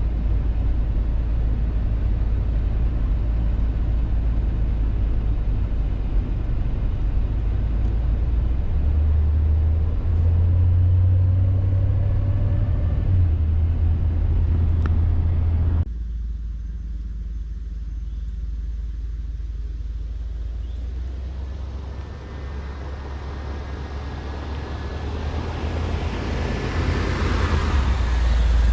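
1989 Chevy G20 van driving, a steady low engine-and-road rumble. About halfway through the sound suddenly drops and thins out, then builds up again near the end.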